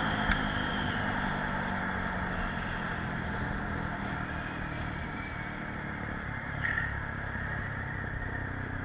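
TVS Apache RTR 160 4V motorcycle engine running at high speed with a steady rush of wind. The engine note slowly falls and the sound eases off a little.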